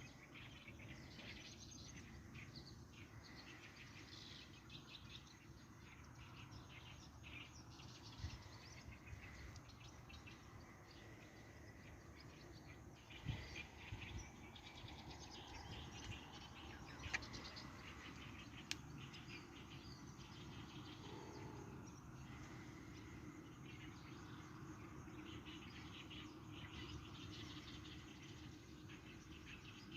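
Faint outdoor ambience of birds and insects chirping, with a few soft knocks near the middle.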